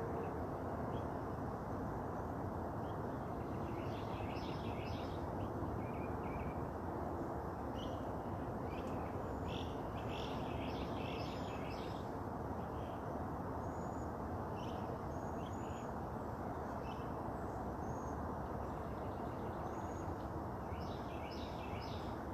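Wild birds chirping and calling in short, scattered notes over a steady low background noise, with the calls busiest near the middle and again near the end.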